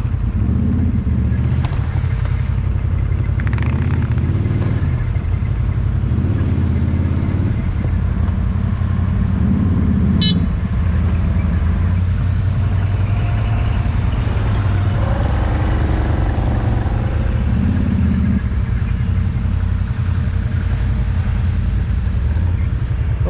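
Off-road vehicle engine running under load, its revs rising briefly several times while the vehicle works to back out of a snowy rut, with a single sharp click about ten seconds in.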